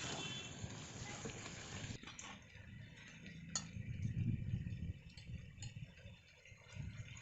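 Pot of food cooking with a steady hiss that stops abruptly about two seconds in, followed by a single clink and soft knocks of cookware being handled.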